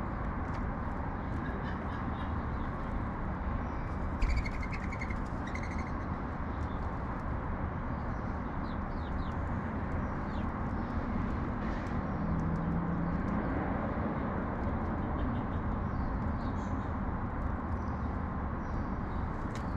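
House sparrows chirping in short scattered calls over a steady hum of city traffic, with a louder burst of chirps about four seconds in.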